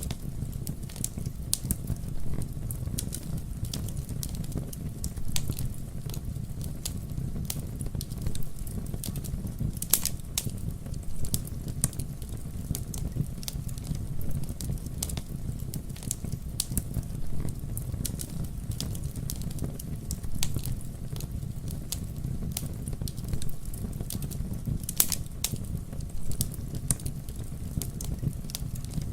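Campfire burning with a steady low rumble of flames and irregular sharp crackles and pops of wood, two louder pops standing out, about ten seconds in and near the end.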